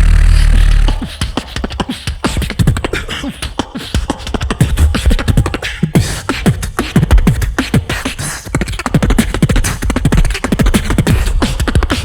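Beatboxing: a loud, deep held bass cuts off about a second in, then rapid vocal percussion of sharp clicks and kick-like hits mixed with short pitched vocal sounds.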